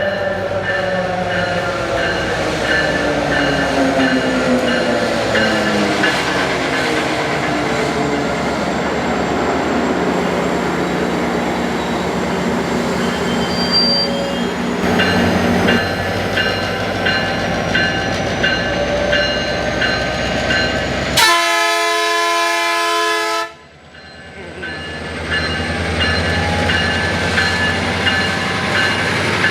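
Metrolink commuter train led by an MP36 diesel locomotive running through the station, the locomotive's engine note falling in pitch over the first few seconds as it goes by, with steady rail and engine noise throughout. About 21 s in there is a loud, sustained tone lasting about two seconds that cuts off suddenly, and then the train noise picks up again.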